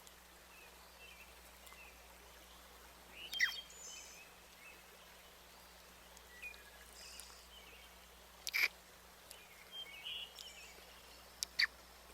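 Outdoor nature ambience: a faint steady hiss with scattered bird chirps, and three sharper calls about three and a half, eight and a half and eleven and a half seconds in.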